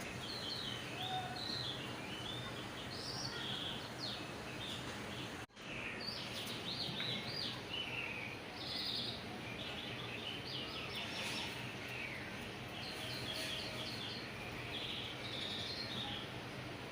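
Birds chirping in quick, repeated short calls over a steady low hum. The sound cuts out for an instant about five and a half seconds in.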